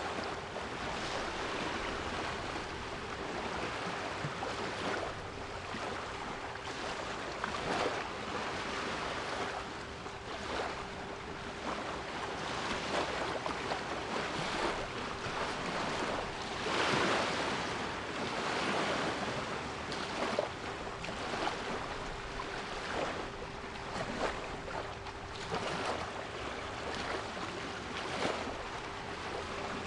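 Sea waves washing and breaking in repeated swells, with a steady 396 Hz pure solfeggio tone held underneath.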